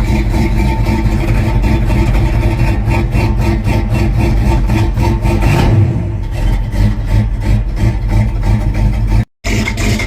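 1968 Chevy C20's inline-six engine running on its freshly rebuilt Rochester Monojet carburetor, on a rough first tune with the idle still being set. It idles steadily with one short rise in speed about halfway through, and the sound cuts out for an instant near the end before the engine is heard again.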